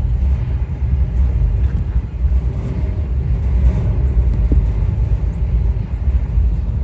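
Propane roofing torch burning with a steady low roar while a patch is heated onto the roof.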